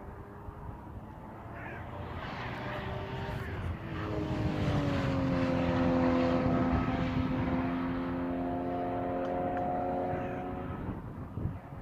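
A sports car's engine passing at speed on a race track: it grows louder as the car approaches, the note drops in pitch as it goes by about five seconds in, then it holds a steady note and fades as the car pulls away.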